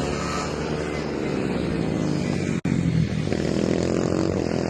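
110cc mini motorcycle engine running hard. Its note falls for the first two and a half seconds, cuts out for an instant, then climbs again as the bike accelerates.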